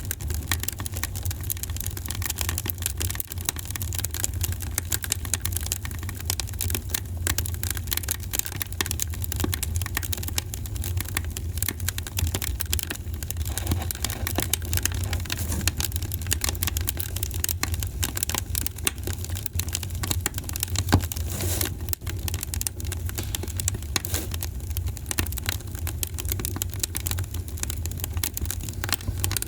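Wood fire in a fireplace crackling, with many small irregular pops over a steady low rumble, and one louder pop about 21 seconds in.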